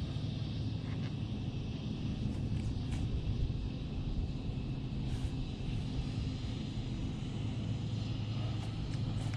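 A steady low motor drone, even in pitch, with a few faint light ticks over it.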